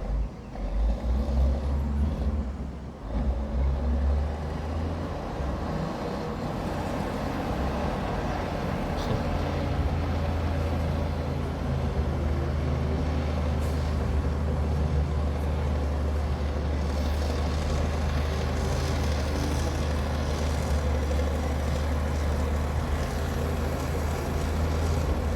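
Heavy diesel engine of earthmoving machinery running with a steady, deep low rumble; the level is uneven for the first few seconds, then holds even.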